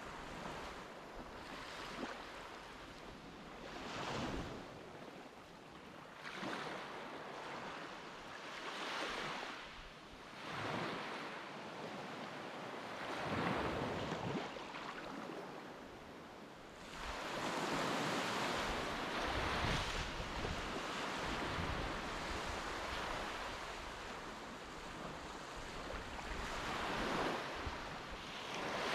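Sea water washing in repeated swells, each rising and falling over a second or two, then a longer, louder rush of water through the second half.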